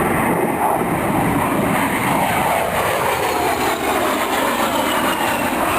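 A-10 Thunderbolt II's twin turbofan jet engines as the aircraft flies past during a display. A loud, steady jet noise carries a whine that falls in pitch from about two to four seconds in.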